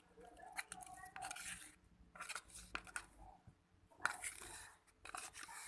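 Spoon or utensil scraping and clinking in a bowl as a slime mixture is stirred, in several short noisy strokes with a sharp click about four seconds in.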